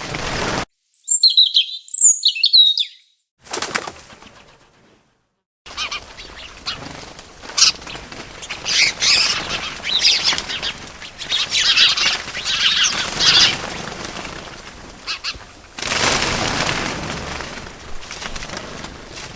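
Small birds chirping in short high calls, with bursts of wing flapping; the sound drops out abruptly twice early on between pieces, then dense chirping follows and a louder whoosh of wings about 16 seconds in.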